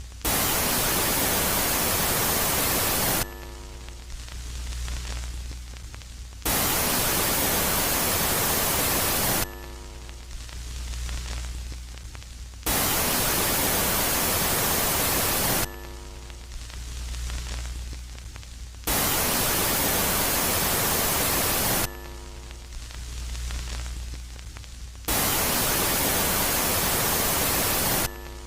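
Synthesized space-sound sonification presented as the moon Megaclite, switching between a loud phase and a quiet phase. The loud phase is a burst of harsh static about three seconds long; five such bursts come at even spacing, about every six seconds. Between them are quieter stretches of low hum, each opening with a brief cluster of steady tones.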